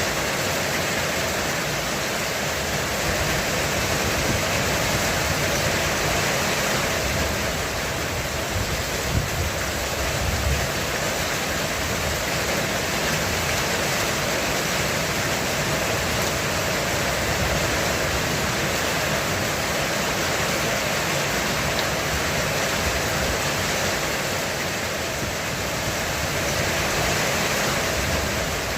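Heavy rain drumming steadily on a roof, a dense even hiss, with a faint low rumble about ten seconds in.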